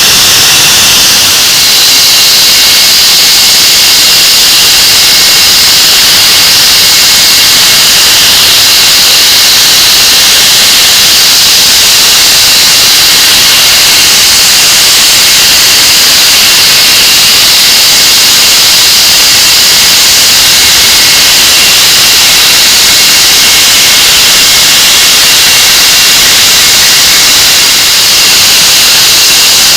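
English Electric Lightning's Rolls-Royce Avon turbojets running steadily on a ground run, very loud: a constant hiss-like jet roar with a steady high whine.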